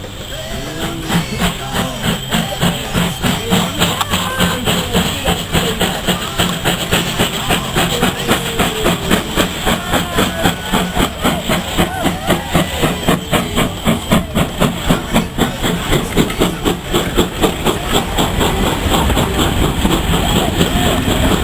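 Steam locomotive chuffing in an even rhythm of about three to four exhaust beats a second, with voices from the crowd alongside.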